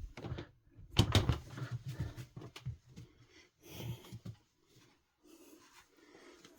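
Objects being handled and set down in a small room: a sharp knock about a second in, then smaller bumps and rustles, with another short cluster a few seconds later.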